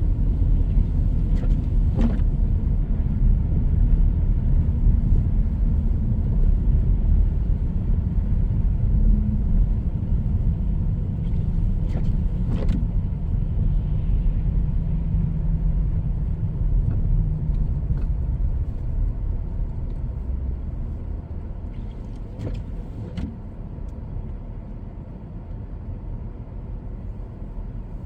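Road noise heard inside a moving car: a steady low rumble of tyres and engine. It grows gradually quieter over the last several seconds, and a few faint clicks come through it.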